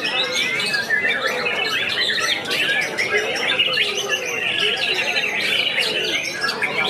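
White-rumped shamas singing without a break, several birds' rapid whistles, trills and chirps overlapping into a dense chorus.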